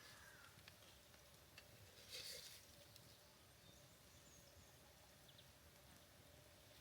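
Near silence: faint outdoor ambience with a few small ticks and a brief rustle about two seconds in, over a faint steady hum.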